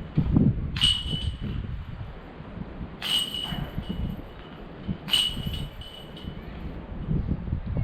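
Putter discs striking a metal disc golf basket three times, about two seconds apart, each hit a clank with a short metallic ring, over wind buffeting the microphone.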